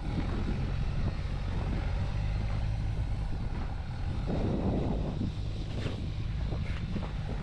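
Strong wind buffeting the microphone over the low running sound of a vehicle driving through deep snow, with a louder gust about four seconds in.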